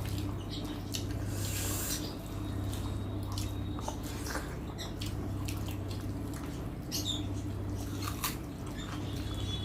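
Eating sounds: wet chewing and lip smacks with scattered small clicks, over a steady low hum.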